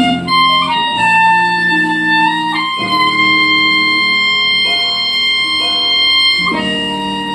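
Clarinet playing a slow melody, holding one long note for about three and a half seconds in the middle, over a lower chordal accompaniment.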